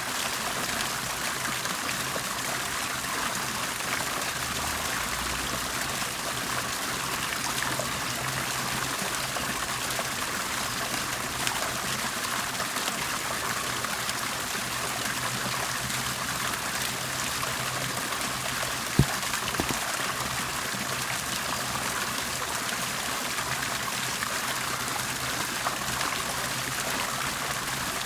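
Water bubbling and trickling steadily, with a faint low hum underneath. A single sharp click sounds about two-thirds of the way through.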